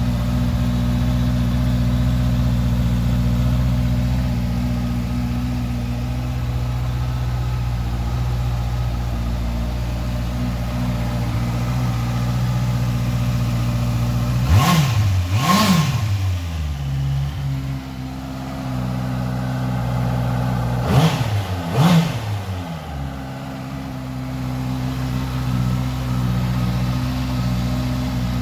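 Honda CBR650F's 649cc inline-four engine idling steadily, blipped twice in quick succession about halfway through and twice again some six seconds later; each rev rises and falls quickly and drops back to idle.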